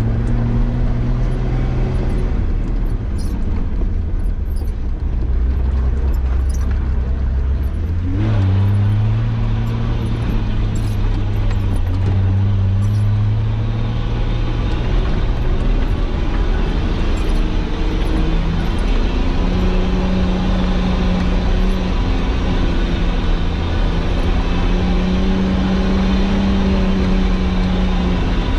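Nissan Patrol Y60's engine running steadily as the 4x4 drives, its pitch dropping and rising several times, with a sharp rise about eight seconds in.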